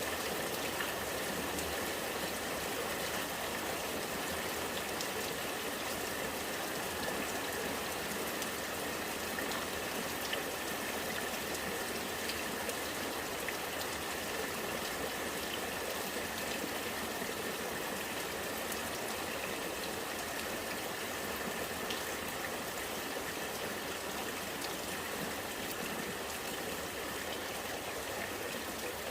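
Rainwater running and gurgling steadily, like a small stream of runoff, with scattered small drips.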